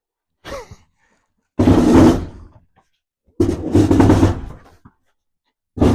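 A heavy boiler being shoved across a concrete floor: two loud scraping thuds about two seconds apart, with a smaller bump near the start and another at the end.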